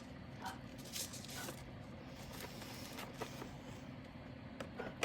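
Faint, scattered rustles and light clicks of small objects being handled, over a low background hum.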